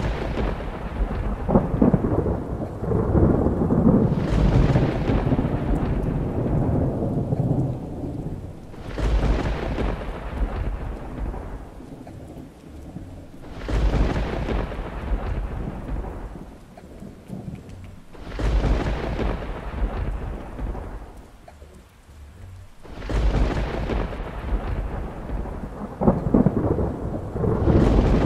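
Thunder rumbling in repeated peals, a new one starting abruptly about every four to five seconds and fading out, with steady rain hissing underneath.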